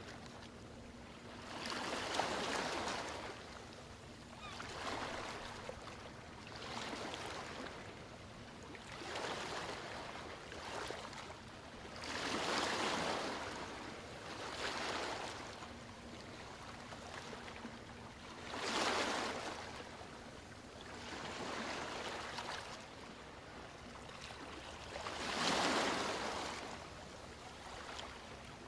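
Small ocean waves washing onto the shore, each surge of surf rising and falling away every two to three seconds.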